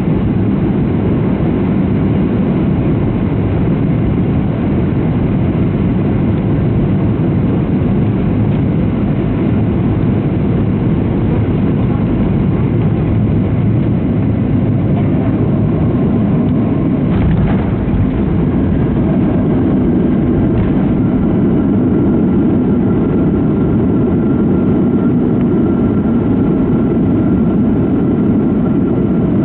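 Steady rumble of a Boeing 737-700's CFM56-7B jet engines and rushing air, heard inside the cabin at a window seat. There is a brief knock about 17 seconds in, and a thin steady whine joins the rumble a few seconds later.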